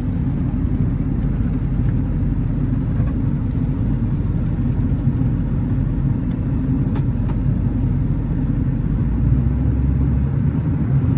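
6.0 Powerstroke V8 turbo-diesel in a 1979 Ford F-250 running steadily while driving, a continuous low rumble.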